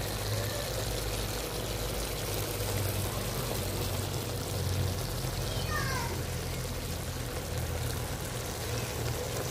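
Pork heart stir-fry sizzling steadily in the pan, with a low steady hum underneath.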